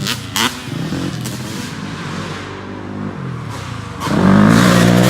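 Off-road vehicle engine running and easing off, its pitch falling, then revving hard again about four seconds in. A short knock sounds about half a second in.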